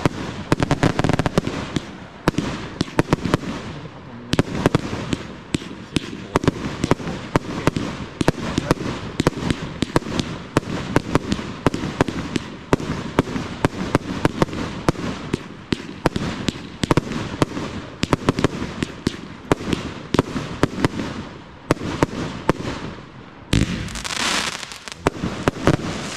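Fireworks display: a rapid, continuous barrage of shells launching and bursting, many sharp bangs and crackles in quick succession. Near the end the separate bangs give way to a denser, steady hiss.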